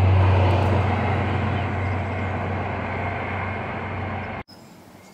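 A train running away along the track, a steady rumble with a low hum that slowly fades. About four and a half seconds in the sound cuts off sharply to much quieter open-air background with a few faint chirps.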